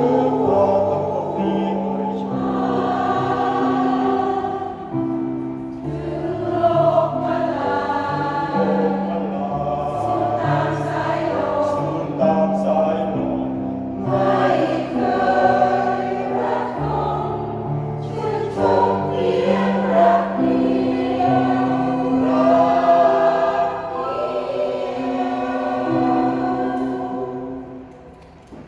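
Senior choir singing, many voices holding sustained notes together; the sound fades down near the end as the song closes.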